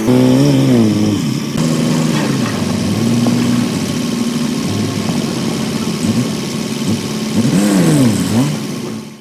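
The engine of a heavy construction machine running, its pitch rising and falling again and again as it revs up and down, with quick swoops in pitch about a second in and again near the end.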